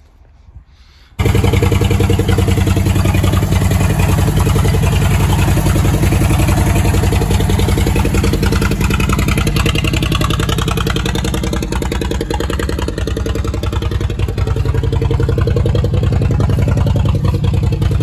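1952 Kaiser Manhattan's flathead straight-six engine running at a steady idle, with an even pulsing rumble, heard from about a second in. The car has just been brought back to running after sitting since 1991, with a cleaned carburetor and freshly gapped points, and runs pretty good.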